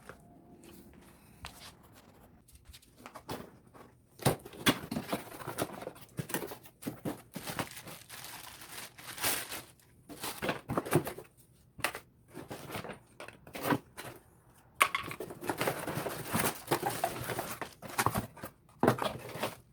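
Packaging being torn open and handled: irregular bursts of tearing and crinkling, with brief pauses between.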